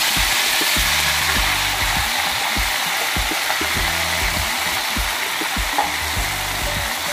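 Marinated chicken pieces sizzling steadily in hot oil in a pan, with a spatula stirring and turning them.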